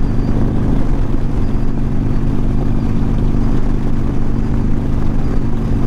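Harley-Davidson Iron 1200's air-cooled V-twin engine running at a steady cruising speed, its pitch holding level, with wind rush over the rider's helmet mic.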